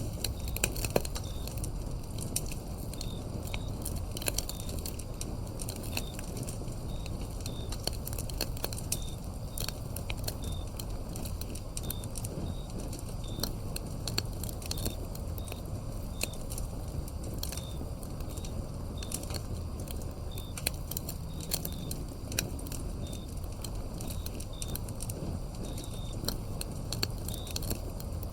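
Wood fire crackling, with irregular sharp pops over a low steady rumble, while crickets chirp in short high chirps about once a second.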